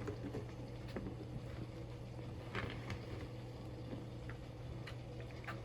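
Steady low hum with faint, scattered rustles and light ticks as shredded and cubed cheese is added to a pan of cooked noodles.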